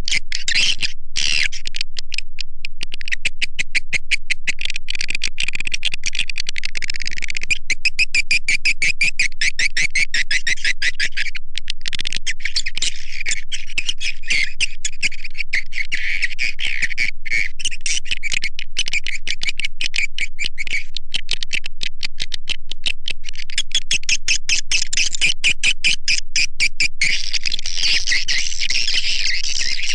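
Recorded swiftlet lure call: a loud, continuous, dense stream of rapid high chirps and twitters from edible-nest swiftlets, made to draw wild swiftlets into a bird house.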